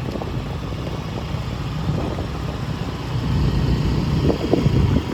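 Motorcycle engine running steadily during a ride, under a low rumble, growing a little louder about three and a half seconds in.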